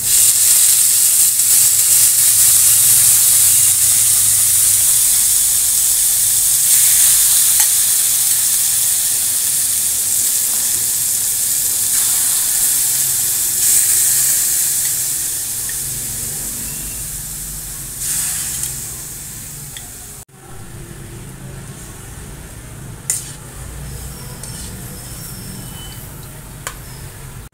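Sliced pork sizzling in a hot oiled pan as it goes in and is stirred with a metal utensil. The sizzle is loud at first and dies down slowly. After a drop about twenty seconds in, a quieter sizzle continues with a few sharp clicks of the utensil on the pan.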